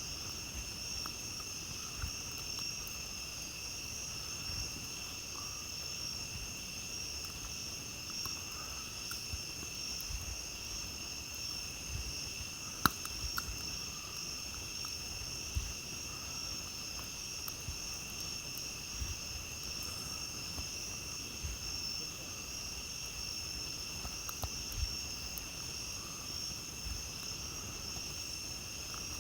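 Steady, unbroken chorus of night insects, with a few scattered sharp crackles and pops from a campfire, the loudest about 13 seconds in.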